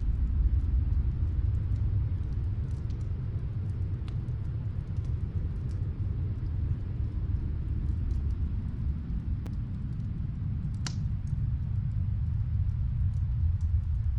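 Deep, steady snowstorm wind rumble, with faint, scattered crackles from a wood fire in another room and one sharper pop about eleven seconds in.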